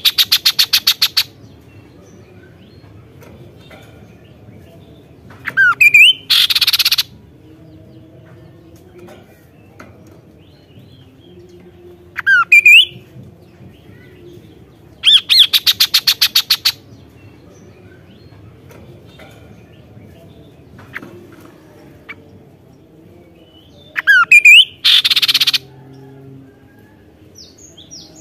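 Kaso-kaso bird calling in loud, energetic bursts. Each phrase has quick rising whistled notes and a fast harsh rattle of rapid notes. There are five phrases, a few seconds apart, with quiet gaps between them.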